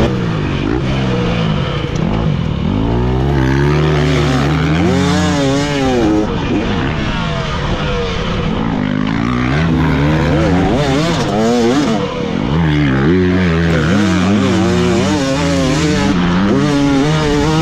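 Dirt bike engine revving hard on a motocross track. Its pitch climbs and drops again and again as the throttle is worked and gears change.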